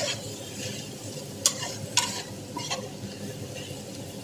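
Sliced onions and garlic sizzling in hot oil in an aluminium pan while being stirred with a slotted stainless-steel ladle. The utensil scrapes the pan and clinks against it sharply a couple of times near the middle.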